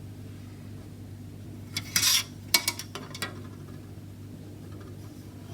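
Plastic model-kit sprues being handled: a short rustle about two seconds in, then a few light plastic clicks, over a steady low background hum.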